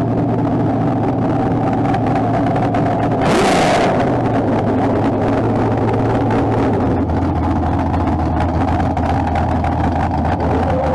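Drag-racing second-generation Chevrolet Camaro's engine running steadily at low speed, with a brief, loud burst of noise about three seconds in.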